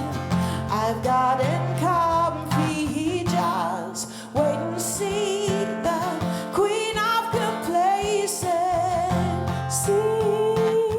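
Live song: a woman's voice singing a wavering melody with vibrato over strummed guitar chords.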